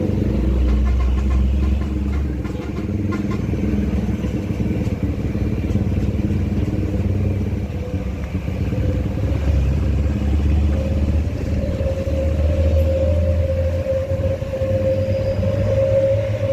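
Vehicle engine running steadily under way, a deep drone with a whine near the middle pitch that comes up about halfway through and holds.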